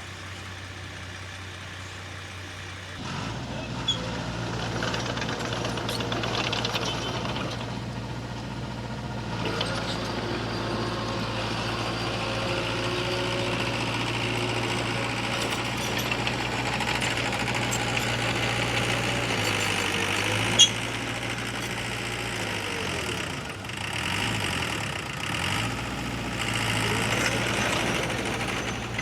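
Heavy diesel engine of earthmoving machinery running, growing louder about three seconds in, its pitch shifting up and down as it works. A single sharp click about two-thirds of the way through.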